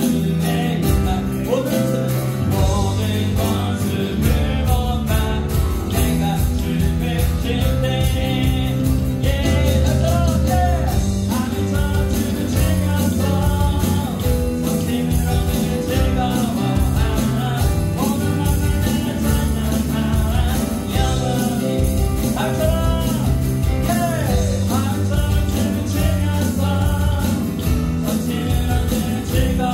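A live worship band (acoustic guitar, keyboard, bass guitar and electronic drums) playing a praise song with a steady beat, a voice singing the melody over it.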